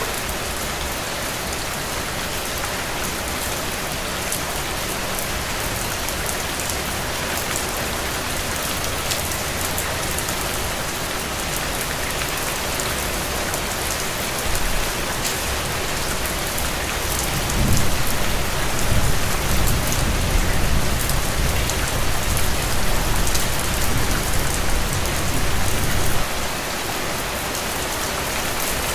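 Heavy steady rain falling on the ground and puddles: a dense, even hiss with scattered drop ticks. About halfway through, a low rumble swells in under the rain and cuts off suddenly about three seconds before the end.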